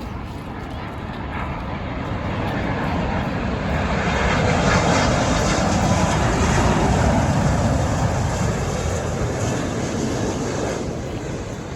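Airliner jet engines passing close by: the noise swells to a peak about halfway through and then fades away.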